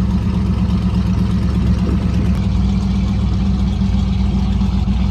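A vehicle engine running steadily, a constant low drone with no change in pitch.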